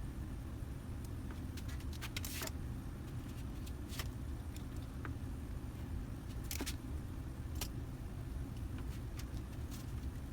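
A few sharp, scattered clicks from zip ties being snipped and pulled off the delta printer's parts, over a steady low hum.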